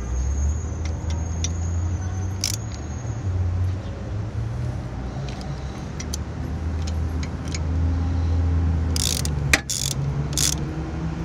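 A vehicle engine running steadily with a low hum, with a few sharp clicks and taps near the end.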